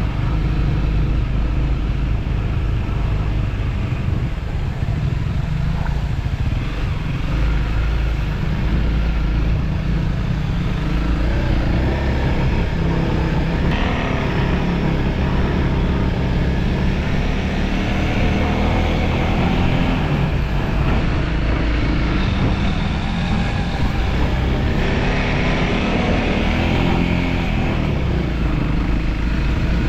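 Motorcycle engine running steadily while being ridden, its pitch rising and falling with the throttle.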